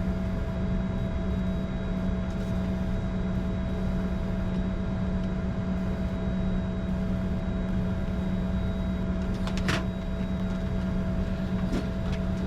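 Steady cockpit hum and rush of a Bombardier Challenger 605 with both GE CF34-3B turbofans still idling after taxi-in, heard from inside the flight deck, with one sharp click about ten seconds in.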